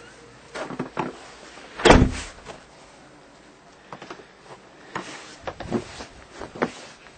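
Scattered clicks and knocks, with one heavy thump about two seconds in.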